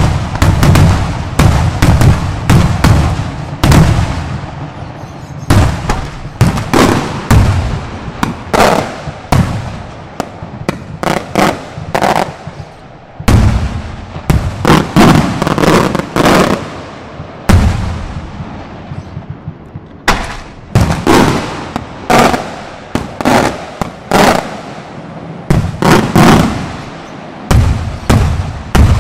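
Aerial salutes and beraq shells going off in rapid barrages of sharp bangs, many in quick succession, with brief lulls between volleys.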